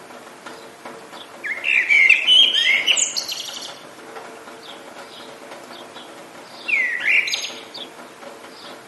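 Songbirds singing over a steady hiss of rain: two loud warbling phrases, the first about a second and a half in and lasting about two seconds, the second near the seventh second, with faint short chirps between.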